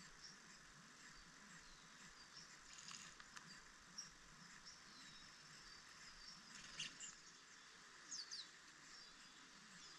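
Faint birdsong: scattered short, high chirps and a few quick falling calls, most of them in the second half, over a steady background hiss.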